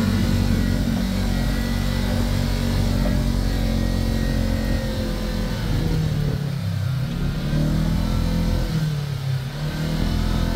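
Kawasaki Teryx KRX 1000 side-by-side's parallel-twin engine running under way, its pitch dipping and climbing again twice as the throttle is eased and reapplied.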